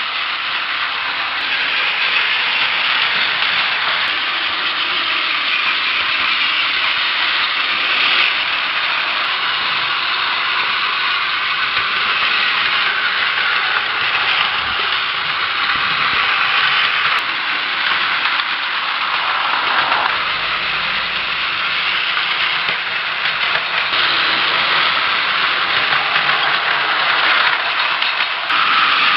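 Battery-powered Plarail toy trains running on plastic track: small electric motors and plastic gearboxes making a steady whirring, rattling clatter.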